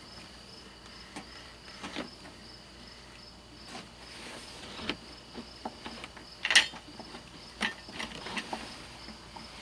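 Scattered light clicks and knocks from plastic oil containers being handled, one louder knock about six and a half seconds in, over a steady high-pitched insect-like chirr.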